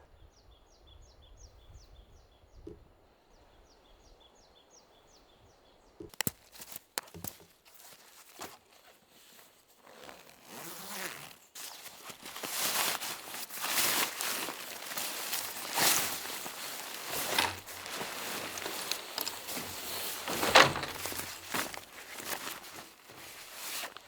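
Insects chirping in a fast, evenly repeating pattern for the first six seconds. Then come irregular rustles and knocks, which grow louder and busier from about ten seconds in, with a sharp peak near the end.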